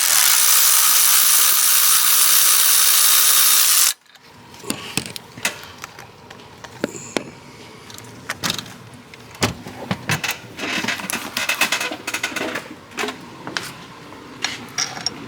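A cordless power tool runs steadily for about four seconds, backing out a water pump bolt, then stops suddenly. After it come scattered light metallic clicks and clinks of bolts and tools being handled.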